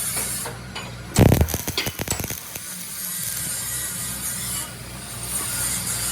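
A quick burst of knocks and clatter, loudest about a second in and over within about a second, over a steady low hum.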